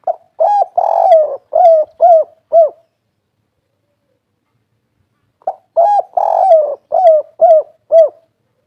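Spotted dove (tekukur) cooing in the 'kuk 3' style: two phrases of about six quick arched coos each, the second starting about halfway through.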